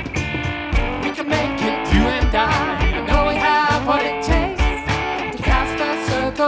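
Live band music: guitars play an instrumental passage of a song over a steady beat, with a wavering melody line above.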